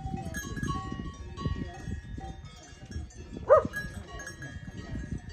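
Livestock bells clinking, with one loud bleat about three and a half seconds in.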